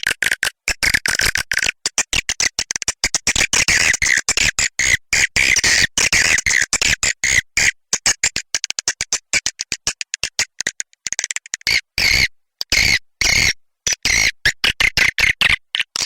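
Recorded swiftlet calls, the lure sound played to draw edible-nest swiftlets into a nesting house: a dense, rapid chattering twitter, high-pitched and broken by many very short cut-offs.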